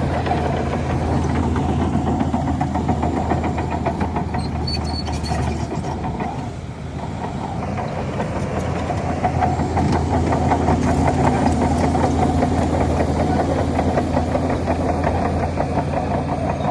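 Heavy diesel engine of earthmoving machinery running steadily, dropping off briefly about six to seven seconds in and then running louder again from about ten seconds.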